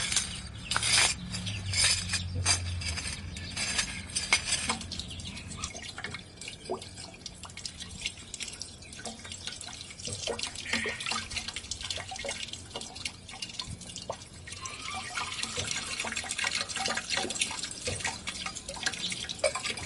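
Water trickling and dripping down a copper rain chain through its bell-shaped cups, with sharp clinks and splashes in the first few seconds, then a steady trickle with scattered drips.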